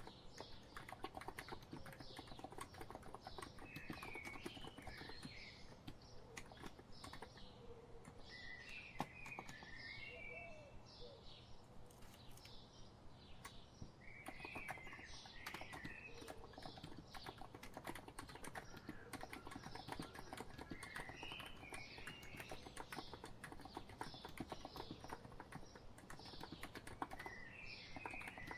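Continuous typing on a COX Empress electro-capacitive keyboard: a quick, unbroken run of soft key clicks. Birdsong runs beneath it in short chirping phrases that come back every few seconds.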